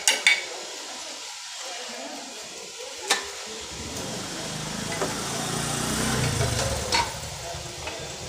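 Sharp metallic clicks and knocks: a quick cluster of three or four at the start, then single ones about three and seven seconds in, over a steady hiss. A low engine rumble builds from about four seconds in, is loudest near six seconds, and fades toward the end.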